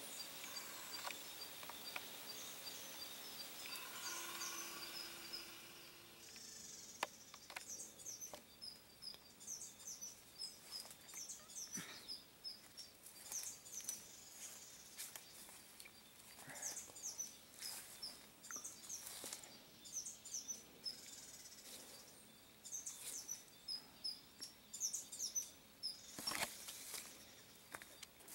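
Birds chirping: many short, high calls repeating throughout, faint. A steady high hiss sits under the first few seconds, and a few brief clicks come through.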